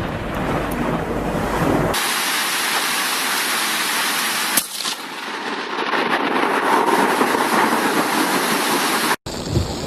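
Heavy rain hissing steadily, broken by one sharp crack about four and a half seconds in, with low rumbling storm noise before and after.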